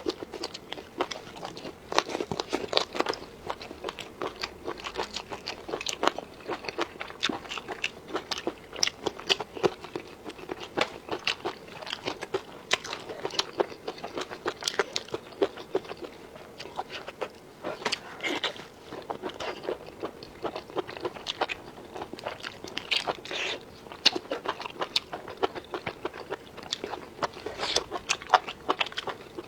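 A person eating: repeated crunchy bites and chewing, dense irregular crisp crackles.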